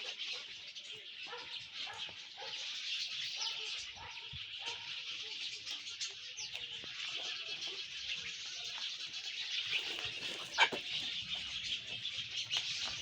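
Dense, continuous chorus of birds chirping, with short lower animal calls in the first few seconds and one sharp click about ten and a half seconds in.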